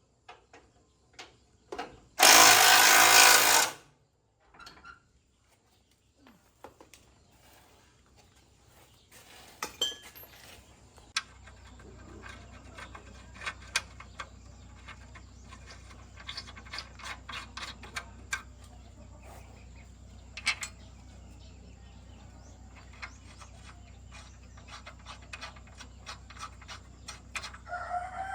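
Repair work on a truck: a loud burst from a power tool lasting about a second and a half, about two seconds in, then scattered metallic clicks and knocks of hand tools. A low steady hum comes in about a third of the way through, and a rooster starts crowing at the very end.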